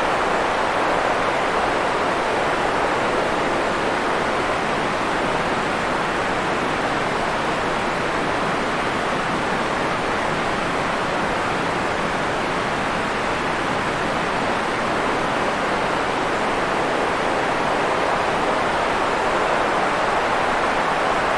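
Steady, unbroken white-noise hiss for sleep, even in level with no changes, its weight in the middle and lower-middle range rather than the highs.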